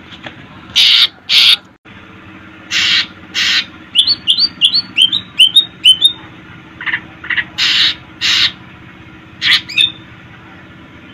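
Cucak ijo (green leafbird) singing: pairs of harsh, rasping notes alternating with a quick run of short rising chirps and a few clear whistled notes, over a steady low hum.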